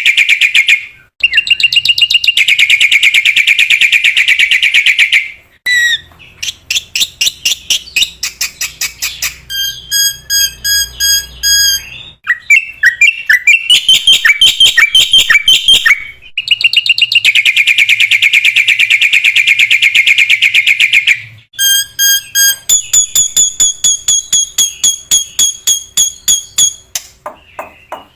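Black-winged myna (jalak putih) singing loudly in long alternating phrases: harsh, fast rattling trills, rapid chattering runs of notes, and clear, steady whistled notes.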